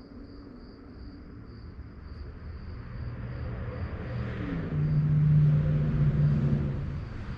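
A car drives past, its engine and tyre noise building for a few seconds and loudest just past the middle, with the engine note dropping in pitch as it goes by. Crickets keep chirping steadily underneath.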